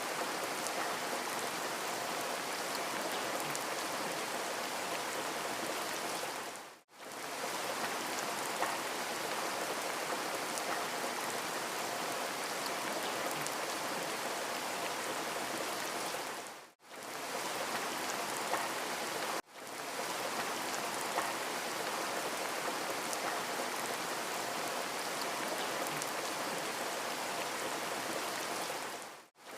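Steady rain falling, an even hiss with faint scattered drop ticks. The sound dips out briefly four times, each gap a fraction of a second.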